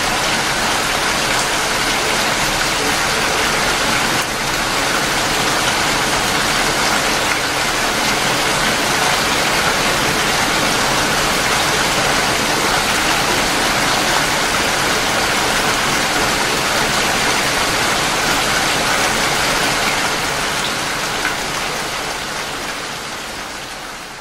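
Steady rain falling, a dense, even hiss of drops, fading out over the last few seconds.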